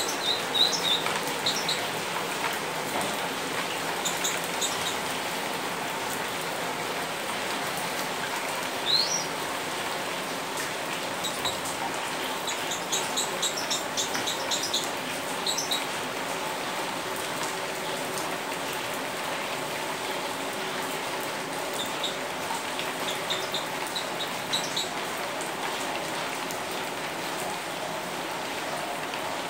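Steady rain falling on wet stone paving. Short high bird chirps come in scattered bursts over it, with a quick run of them around the middle.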